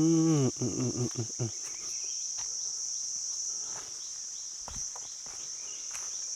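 Steady, high-pitched chorus of insects buzzing in forest, one unbroken whine, with a brief human voice in the first second and a few faint clicks.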